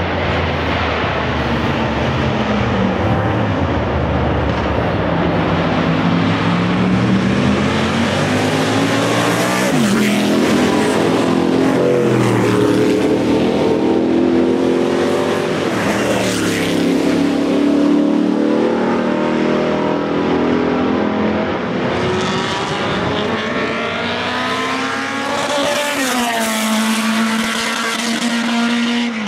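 Historic sports racing cars running at speed, engines revving up and down through the gears as several cars pass one after another, with sharp pitch swoops as they go by about ten seconds in, again around sixteen seconds, and near the end.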